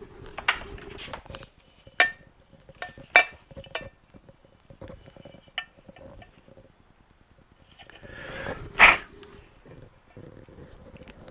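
Scattered light metallic clicks and clinks of motorcycle engine parts and hand tools being handled during a test-fit, with one louder sharp burst of noise about nine seconds in.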